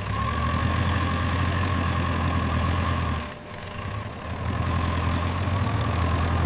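Heavy machinery engine running steadily with a low hum. It drops off briefly about three seconds in, then picks up again.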